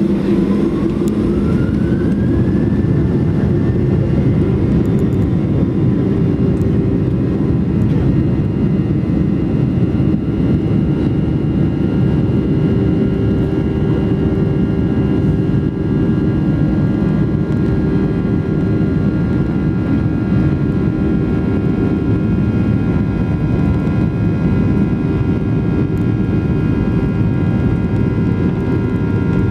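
Boeing 737-800's twin CFM56 turbofan engines heard from inside the cabin, spooling up to takeoff thrust. A whine rises in pitch over the first few seconds, then holds steady with several higher whines over a loud, steady rush.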